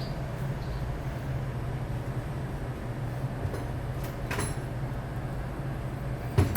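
Work on a Chevrolet Express van's rear differential cover: a few short metallic clicks about four seconds in and a sharp knock near the end, over a steady low hum.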